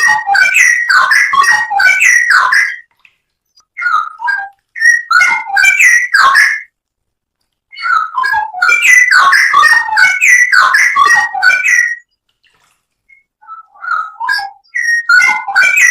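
Straw-headed bulbul (cucak rowo) singing loud, rich, bubbling warbled phrases, four bursts of song of a few seconds each separated by pauses of about a second.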